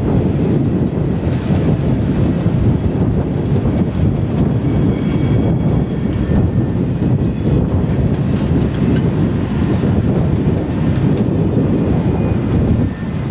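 Alaska Railroad freight train of container cars rolling past at a distance: a steady low rumble of wheels on rail. Faint high wheel squeal comes in for a couple of seconds around the middle.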